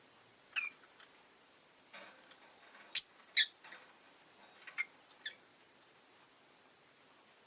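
Peach-faced lovebirds giving a scatter of short, sharp, high-pitched chirps and squeaks, two loud ones in quick succession about three seconds in and a few softer ones before and after.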